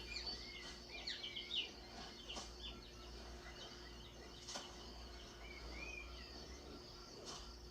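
Faint high chirping calls: a quick run of short chirps in the first two seconds and a couple of arched, rising-then-falling calls around six seconds in, over a low steady hum.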